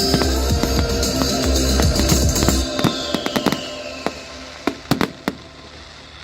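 Pop music with a heavy bass line that stops about two and a half seconds in, followed by scattered sharp firework cracks, a few louder ones near the end.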